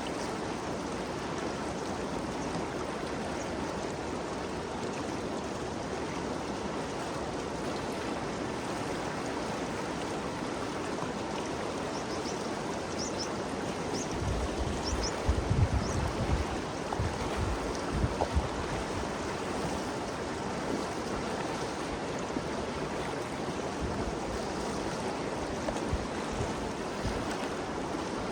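The Ganges River flowing steadily, an even rushing of water. About halfway through, a few seconds of low rumbling bumps, like wind buffeting the microphone.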